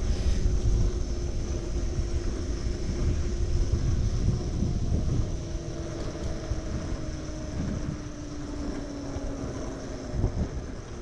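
Electric moped motor whining steadily at low speed, its pitch sagging slowly, under a rumble of wind on the microphone.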